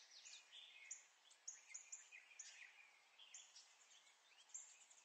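Near silence with faint birds chirping in the background: many short, quick chirps scattered throughout.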